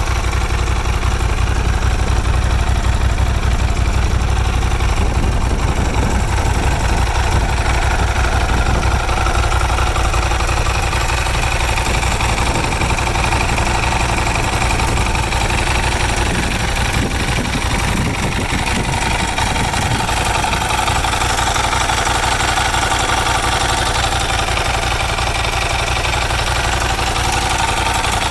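Motorcycle engine idling steadily, a rapid even pulsing.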